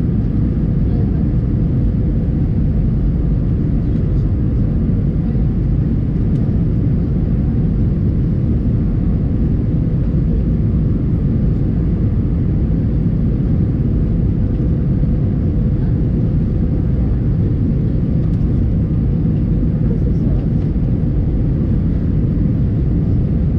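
Steady low rumble of engine and airflow noise inside the cabin of an Airbus A321 airliner on approach, with a faint steady hum above it. It holds even throughout, with no sudden thumps.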